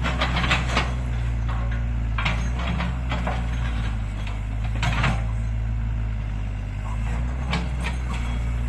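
Heavy diesel engines of an excavator and a dump truck running steadily, with scattered sharp clanks and knocks, several of them in the first second and more about two, five and seven and a half seconds in.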